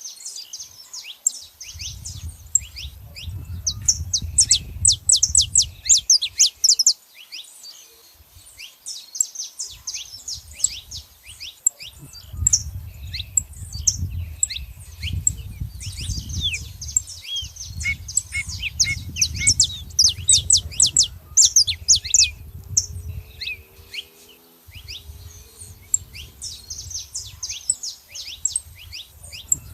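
Saffron finches chirping in rapid, high-pitched bouts of quick notes and short trills, pausing briefly now and then. A low rumble comes and goes underneath.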